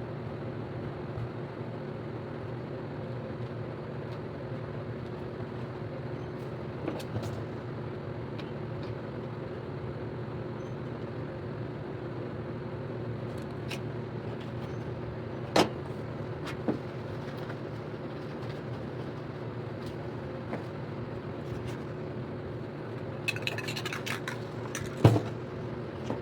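Steady low mechanical hum, with a few sharp clicks and a brief rattle near the end.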